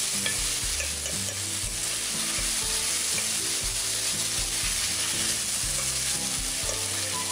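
Chopped onion, green chilli and tomato sizzling in hot oil in a steel kadai while being stirred and turned with a metal spatula. The sizzle is steady throughout.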